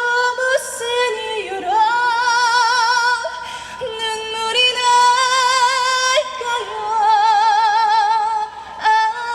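A woman singing a slow trot ballad unaccompanied, holding long notes with wide vibrato. She takes a quick breath near the end.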